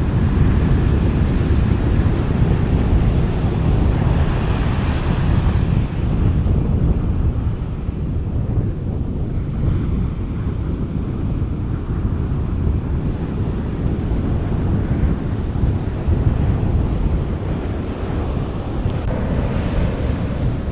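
Gentle sea waves washing onto a beach, with wind on the microphone adding a steady low rumble. The wash of the surf swells for the first few seconds, eases off, and rises again near the end.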